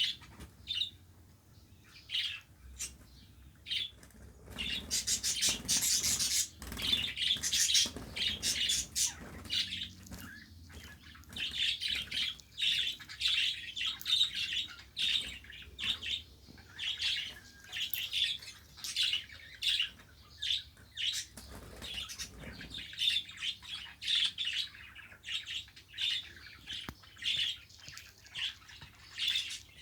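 Budgerigars chirping in quick, repeated bursts, with a busier, denser stretch a few seconds in.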